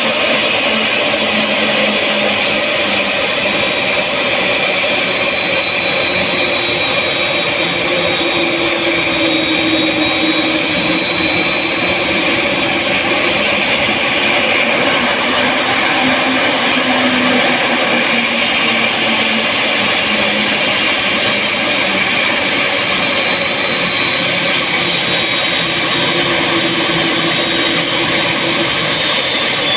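Jet airliner engines running steadily: a loud, even rush with a high whine laid over it, the whine's pitch drifting a little up and down.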